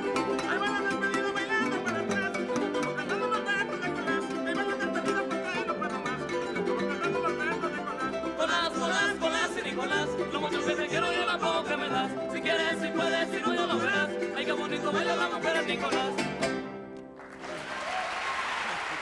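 Son jarocho ensemble of harp, jarana and requinto playing, with a singer's wavering voice over the strings. The music stops about three-quarters of the way in, and a short burst of hiss follows.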